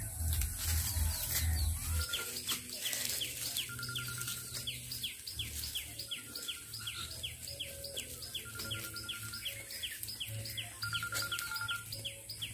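Birds calling outdoors: a rapid, regular series of short falling chirps, about three a second, with brief stretches of a fast high trill and a steady high hiss behind.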